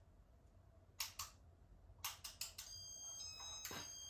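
Casablanca IntelliTouch control in flick mode: sharp button clicks, two about a second in and three about two seconds in, then a steady electronic beep tone from a little past halfway to the end.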